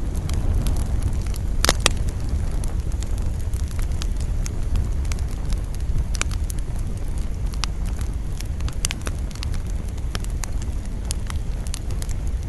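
Wood campfire crackling, with scattered sharp pops and a loud double pop about two seconds in, over a steady low rumble of wind.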